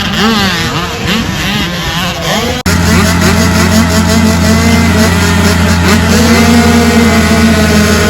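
Dirt bike engine revving, its pitch rising and falling. After an abrupt cut about two and a half seconds in, an engine runs at a steady pitch.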